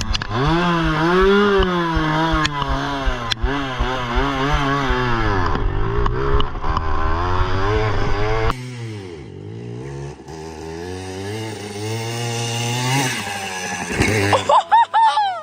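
Pit bike engine revving up and down. About eight and a half seconds in it cuts to a lower, steadier engine note that slowly climbs.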